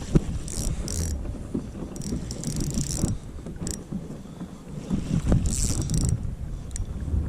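Wind buffeting the microphone on a kayak on the water, a low rumble, with several short high hissing sounds scattered through it.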